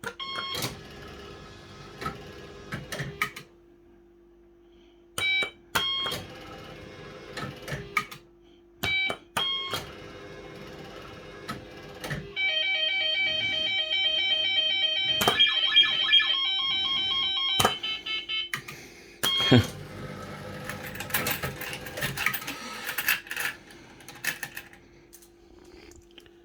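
Firecracker fruit machine being played: short electronic bleeps, then a few seconds of a bleeping tune about halfway through, with mechanical clicks and clunks from the reels and buttons.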